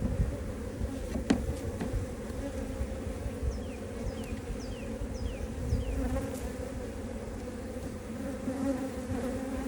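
Honeybees buzzing steadily around an open hive, with a single sharp click about a second in and a few short high falling chirps in the middle.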